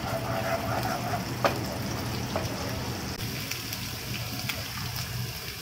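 Ginger-garlic paste sizzling in hot oil in a nonstick pan, a steady hiss, as a wooden spoon stirs it, with a sharp knock of the spoon on the pan about one and a half seconds in.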